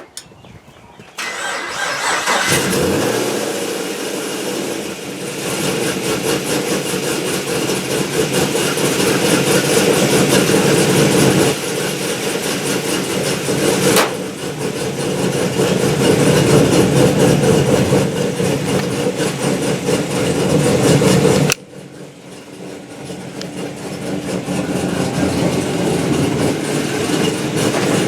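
Gen 5 Chevrolet Camaro engine starting about a second in, then running steadily, after its battery cable connections were cleaned and fitted with copper washers to cure a low-voltage hard start. There is a sharp click midway, and the sound drops off suddenly about 21 seconds in before building up again.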